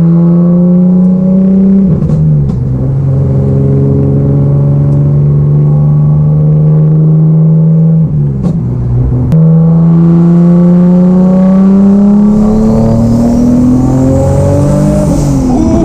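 Turbocharged Nissan 370Z 3.7-litre V6 (VQ37) under way. The engine note climbs under acceleration, then drops sharply at gear changes about 2 and 8 seconds in and again near the end. During the long pull before the last change, a faint high whistle rises with it.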